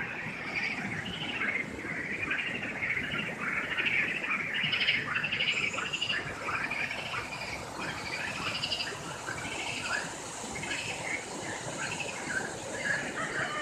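Many birds chirping and chattering at once in a dense, continuous chorus of short calls and trills, over a steady low rushing background.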